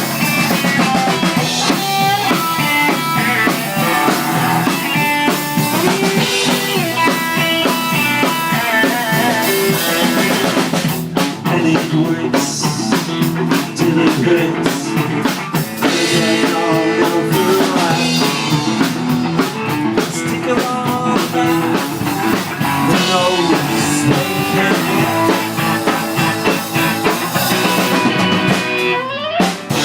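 Rock band playing live at rehearsal: electric guitars over a drum kit, with a rising guitar slide near the end.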